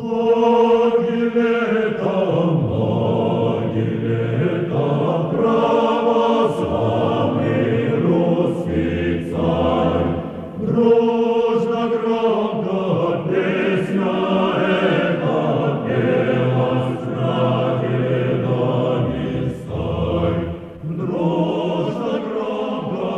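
A choir singing a slow chant in long held chords, with a deep bass line.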